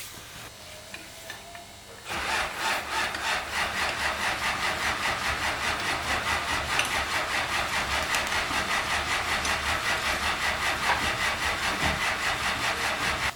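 A hand tool worked back and forth in quick, even strokes, about three to four a second, with a rasping sound like sawing. It starts about two seconds in and stops near the end.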